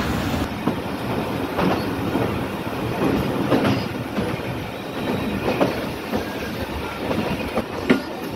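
Pakistan Railways passenger train running on the line, a steady rumble with sharp wheel clacks over the rail joints at uneven intervals.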